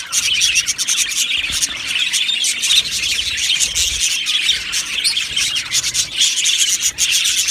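A flock of budgerigars chattering and chirping together, many short overlapping calls in a steady dense din.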